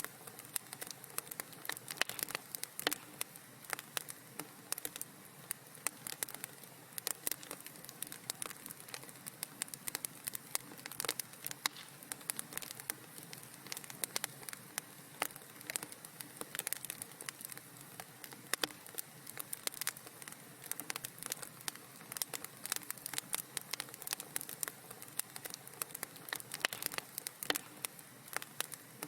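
Wood fire burning in a fireplace, crackling with frequent sharp pops and snaps over a soft steady hiss.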